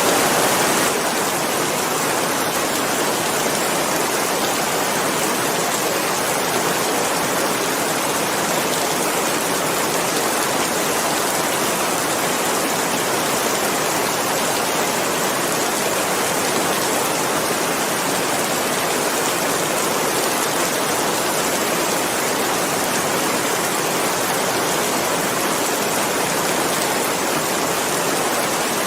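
Steady rain: an even hiss with no single drops standing out, a little louder for the first second.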